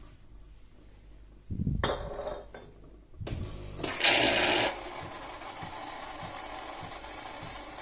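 Automatic bean-to-cup coffee machine working: a couple of clunking mechanical noises and a short loud hiss about four seconds in. It then settles into a steady running hum with faint regular pulses.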